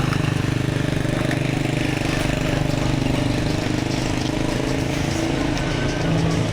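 A motor vehicle engine idling close by, a steady low hum that holds without revving.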